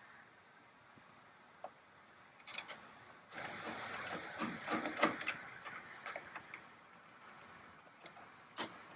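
Hand work on a washer's metal front plate: scattered clicks, then a few seconds of scraping and clicking from about three seconds in, as screws are put back in to secure the plate.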